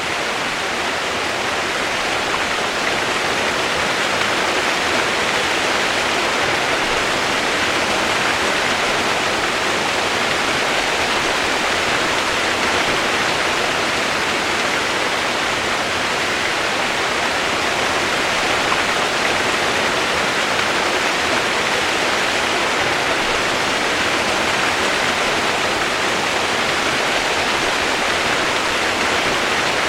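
Steady rainfall used as white noise: an even rushing sound with no separate drops, pauses or changes.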